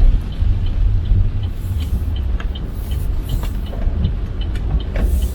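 A car driving in heavy rain: a steady low road rumble under the noise of rain. A faint, evenly spaced ticking runs along with it, and a few sharp clicks come in the second half.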